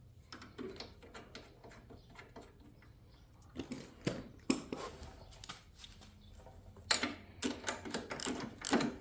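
Small metal clicks and clinks of hand work on the garden tractor's engine, sparse at first, then louder and more frequent from about three and a half seconds in.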